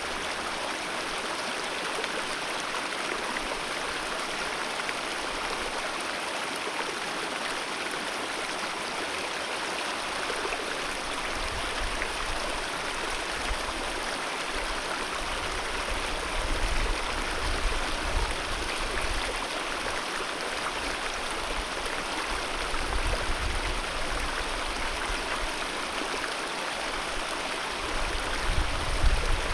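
Alpine mountain river rushing steadily over rocks, a dense even wash of flowing water. From about a third of the way in, uneven low rumbles come and go beneath it.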